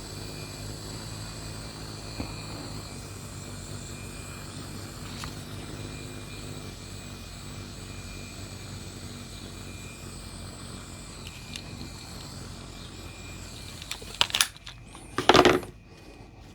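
Hot-air blower running steadily with a low motor hum and a faint high whine, shrinking heat-shrink wrap onto an 18650 lithium-ion cell. It stops about fourteen seconds in, followed by two loud knocks.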